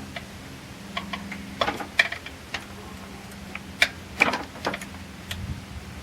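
Hand tools clicking and tapping against metal under a truck's hood: a string of sharp, irregular clicks, the loudest about two and four seconds in, over a steady low hum.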